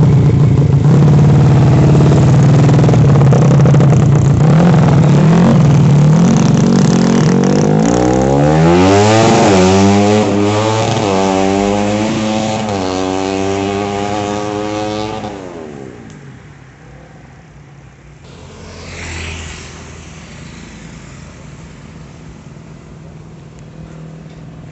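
A motor vehicle engine runs loud and steady, then revs up in several rising sweeps, as if shifting up through gears, and fades away. A brief, fainter swell of sound comes near the end.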